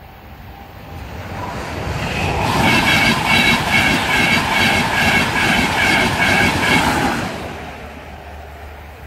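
A passenger train passing over a level crossing. It builds up as it approaches, is loudest for about four seconds with a rhythmic wheel clatter of about three beats a second, then fades quickly as it goes away.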